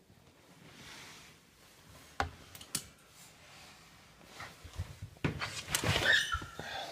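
A wooden door being handled: two light knocks a couple of seconds in, then from about five seconds a stretch of rubbing and scraping with a brief squeak.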